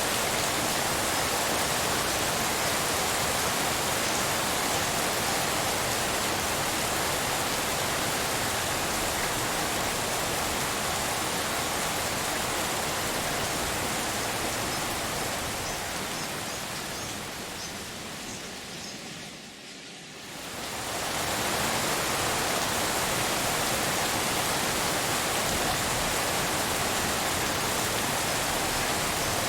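Steady rain on leaves: a dense, even hiss like pink noise. About 15 seconds in it fades down over a few seconds to its quietest point, then quickly swells back to full level, like the seam of a looped recording.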